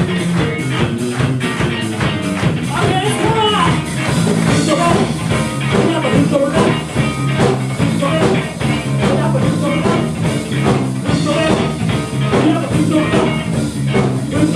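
Live rock band playing: a drum kit keeps a steady beat under bass and electric guitar.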